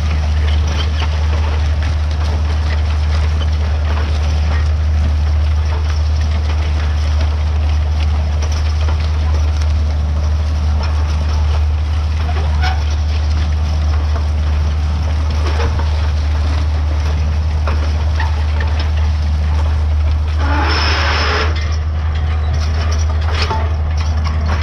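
White 2-150 tractor's diesel engine running with a steady, deep drone. A short burst of rattling comes near the end.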